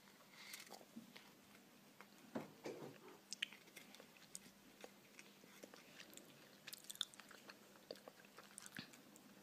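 Faint, irregular small clicks and crunches, like chewing.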